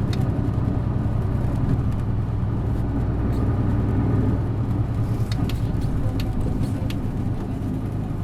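Isuzu Erga city bus's diesel engine running under way, heard from inside the cabin: a steady low drone with a few light rattling clicks, easing off slightly about halfway through.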